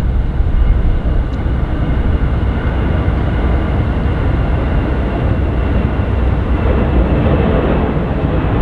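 Jet airliner engines running loud and steady, a deep rumble with a faint high whine, building a little near the end.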